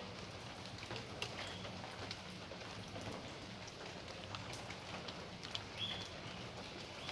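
Steady rain falling in a backyard, with scattered drops ticking sharply on hard surfaces. Two brief high chirps sound about 1.5 s and 6 s in.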